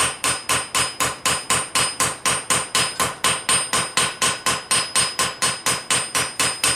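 Hand hammer striking hot steel on an anvil, forging a knife blade: a steady run of blows, about four a second, with a high ring carrying between them.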